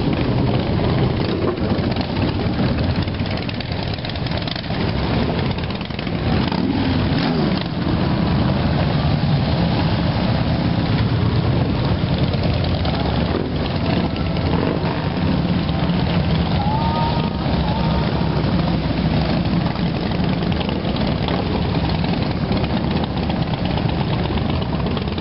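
Motorcycle engines running together, a dense steady engine sound, with one engine revving up about six seconds in.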